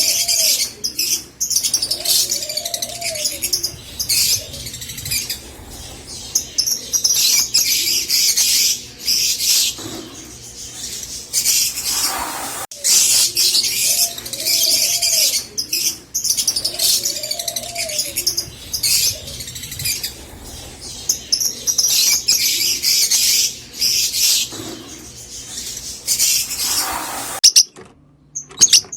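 A flock of rosy-faced lovebirds chattering continuously with shrill, rapid chirps, joined every couple of seconds by a softer, lower arching call. The chattering breaks off abruptly near the end.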